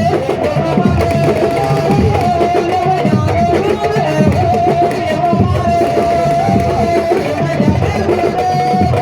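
Loud sabar drumming, a dense run of hand-and-stick drum strokes, with a long held high note wavering above it.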